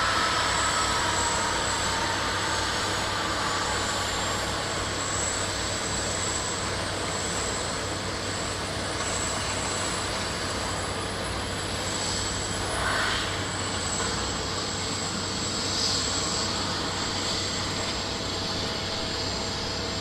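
Jet airliner engines running: a steady broad rush with high whining tones, one gliding slowly upward, the whole sound easing off gradually over the first several seconds.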